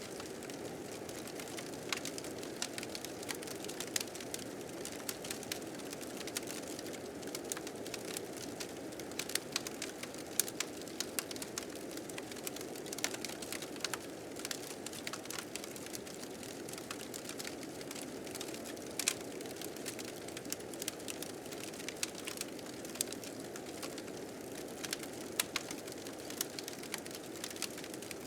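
Fire crackling with frequent sharp snaps, over the steady rushing roar of a blizzard wind.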